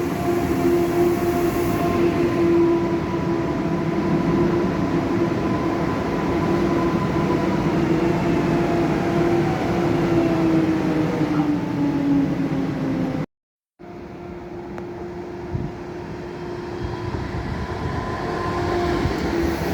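Passenger train running with rumble and a whine of several tones that slides down in pitch about ten to thirteen seconds in, as the train slows. A short gap follows, then train running noise with a steady whine again.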